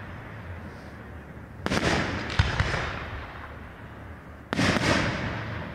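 Aerial firework shells bursting twice, about three seconds apart, each sharp bang followed by a tail that fades over about a second.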